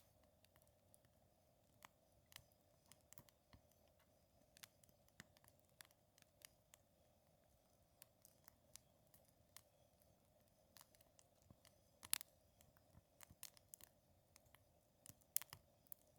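Wood fire crackling softly: small pops and snaps at irregular intervals, with a couple of sharper pops about twelve and fifteen seconds in, over a faint steady hum.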